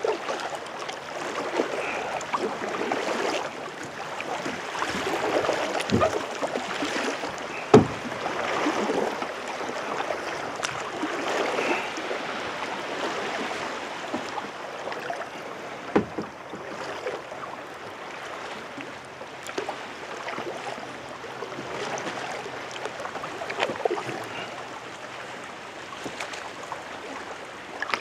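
Kayak paddle strokes: the blades dipping and pulling through the water with splashing and dripping that swell and fade stroke by stroke, and a few sharp knocks, the loudest about eight seconds in.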